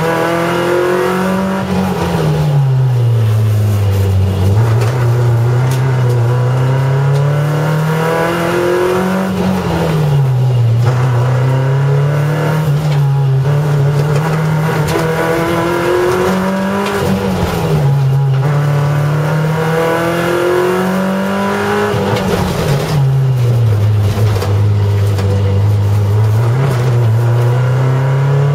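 Peugeot 205 GTI's four-cylinder petrol engine heard from inside the cabin at full effort during a timed slalom run. The revs climb and then fall back sharply every four to six seconds as it accelerates and slows between the gates.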